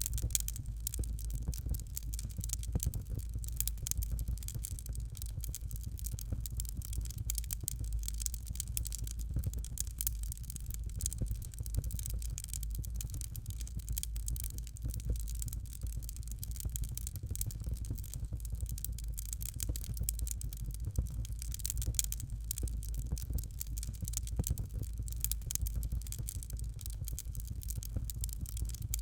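Fire crackling in a fireplace: dense, irregular small pops and snaps over a steady low rumble of the flames.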